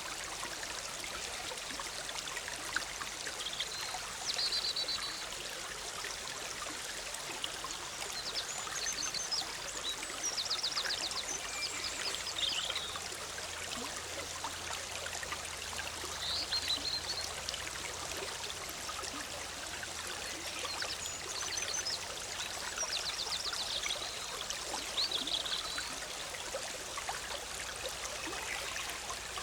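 Forest stream bubbling steadily over rocks, with small songbirds singing short high phrases and quick trills every few seconds above the water.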